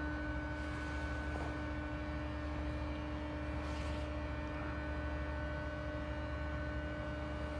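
Steady low drone with a few constant tones from the diesel engines of a drilling site, which the resident takes to be its 30-litre diesel pump engines running.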